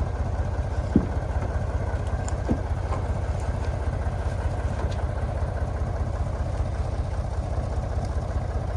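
Heavy truck engine idling steadily with a fast, even low pulse, with two short knocks about a second and two and a half seconds in.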